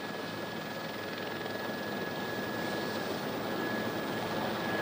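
Steady rushing aircraft noise, growing slightly louder, with a faint steady high whine over it.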